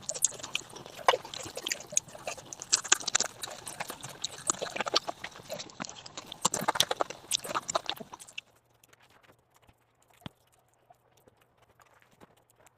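Close-up eating sounds: chewing and mouth smacking with quick, irregular clicks, stopping about two-thirds of the way through. After that there is only a faint low hum and an occasional click.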